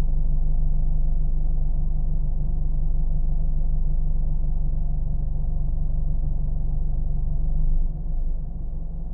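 Car engine running steadily: a continuous low drone with a deep hum. Just before the end it drops a little in level and its low tone shifts slightly.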